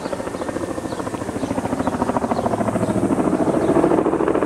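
Helicopter approaching to land, its rotor blades chopping in a fast, steady beat that grows louder as it comes closer.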